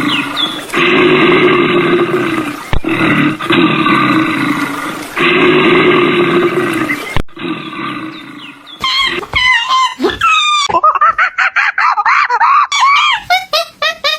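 Animal calls: first a run of loud, harsh, drawn-out calls in four stretches, then from about two-thirds of the way in, shorter calls that waver up and down in pitch.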